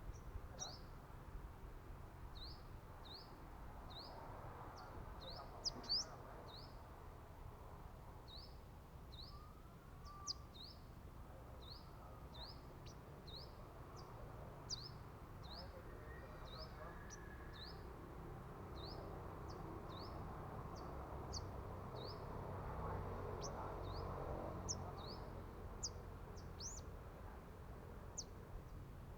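Sunbird calling: short, high, rising chirps repeated about once a second, over faint background noise.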